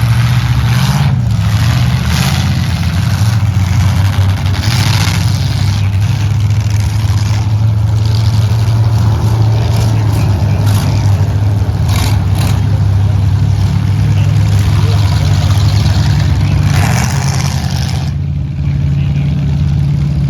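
Demolition derby trucks' engines running loudly and revving, a steady low drone with repeated short bursts of noise over it; the higher noise drops away about eighteen seconds in.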